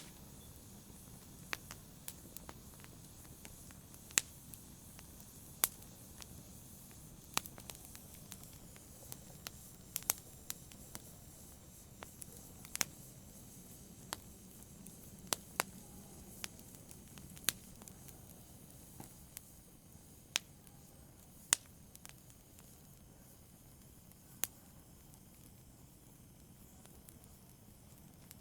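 Wood fire crackling: sharp, irregular pops over a soft steady hiss, the pops thinning out in the last few seconds.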